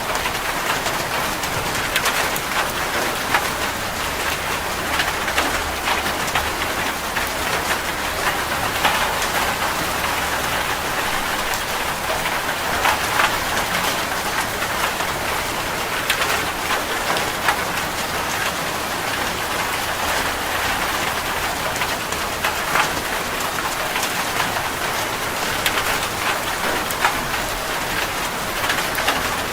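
Steady rain falling on a surface, a dense even patter with many distinct drops hitting close by.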